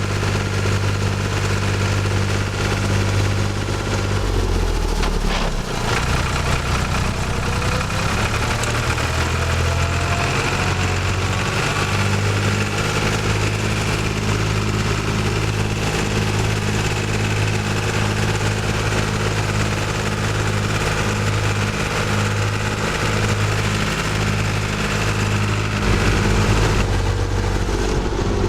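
Tractor engine running steadily while driving, its pitch shifting about five seconds in and again near the end.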